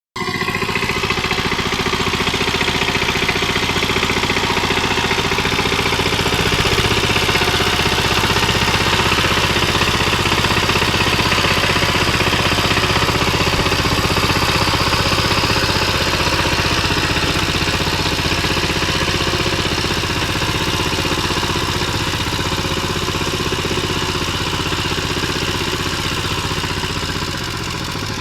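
Diesel engine of a power tiller running steadily, with a clattery rhythm, dropping slightly in level near the end.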